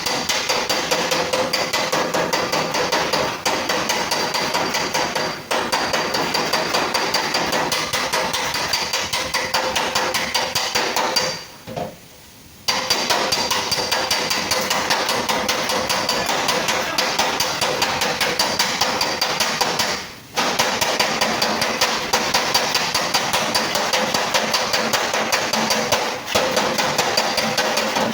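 Rapid hammering on the sheet metal of a car's fender panel, each blow with a metallic ring. It stops for about a second roughly eleven seconds in and briefly again about twenty seconds in.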